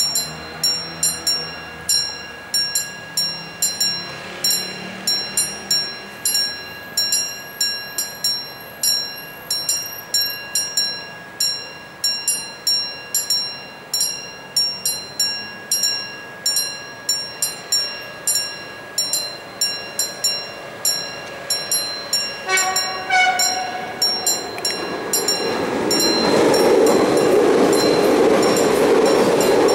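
Level crossing warning bell ringing about two strikes a second. About two-thirds of the way through, an approaching Siemens Desiro EMU 460 electric train sounds a short horn, and its rumble then builds to the loudest sound by the end.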